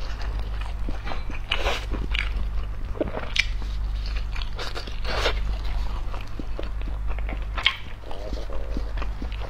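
Close-miked chewing and biting of a large soft steamed bun (baozi), with irregular wet mouth clicks and smacks. A steady low hum runs underneath.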